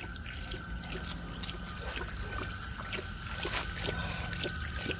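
Water trickling from a foot-pedal dog drinking fountain as a dog laps from it, with small irregular splashy ticks throughout and one sharper one about three and a half seconds in.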